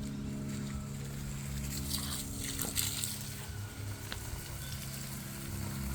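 Steady low hum made of several held tones, with a few faint clicks in the middle.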